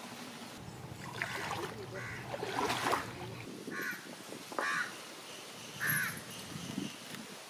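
Three short, harsh bird calls, like a crow cawing, about four, four and a half and six seconds in, over a low background of mixed noise.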